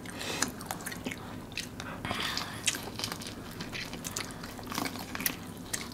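Close-miked biting and chewing of a crispy, sauce-coated fried chicken cutlet: scattered crunches and wet mouth clicks.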